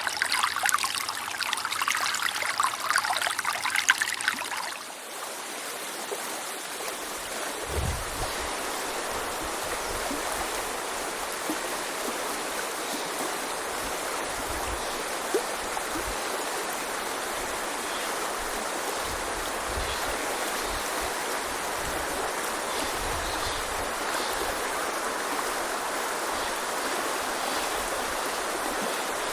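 Clear snowmelt mountain river, the Azusa, running and babbling over stones. About five seconds in, the sound changes suddenly from a brighter, splashier burble to a softer, steady rush.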